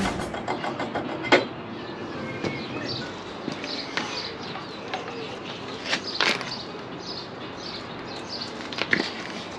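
A few sharp metal knocks and clinks, the clearest three about a second, six seconds and nine seconds in, as the brake disc and caliper are worked off the front hub of a car subframe. Birds chirp faintly in the background.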